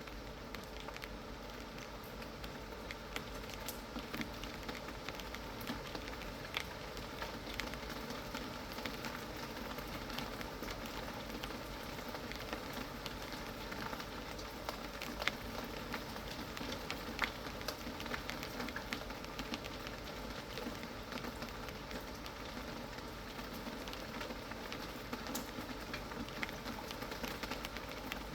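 Steady rain falling, with many small drop taps heard through the patter and a few louder single drops.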